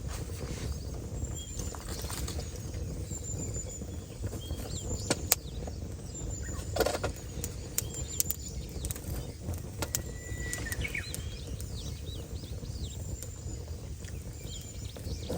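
Small birds chirping on and off over a steady low background rumble, with scattered sharp ticks and a few louder knocks.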